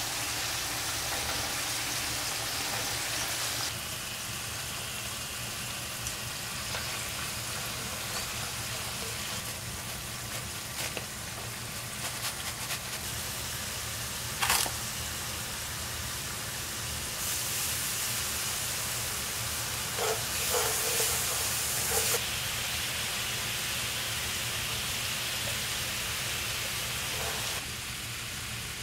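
Cubes of sweet potato sizzling in hot frying oil, then, after a cut, sugar syrup sizzling and bubbling as it heats in a frying pan. A sharp knock comes about halfway through, and there are a few light clatters later.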